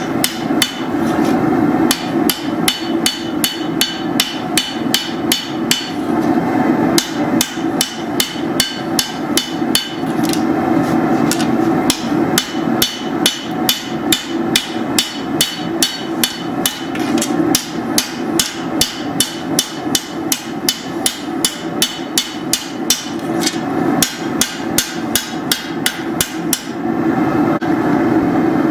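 Hammer striking steel on an anvil while forging a machete blade, in a steady rhythm of about two to three blows a second with a few short pauses. A steady low hum runs underneath.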